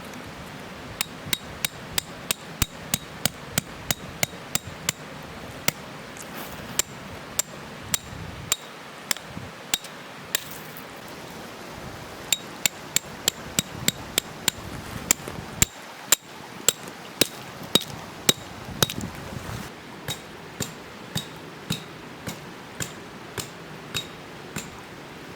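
Tent pegs being hammered into the ground: sharp metal-on-metal strikes with a short ringing tone, about two to three a second, in four runs with short pauses between them.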